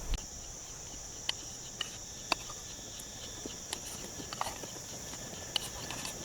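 Insects trilling steadily at a high pitch, with scattered sharp clicks every half second or so.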